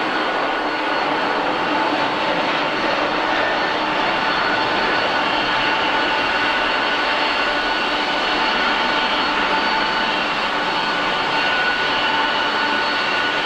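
Jet engines of a Boeing 747-400 freighter running steadily: a broad rush with several steady whining tones over it.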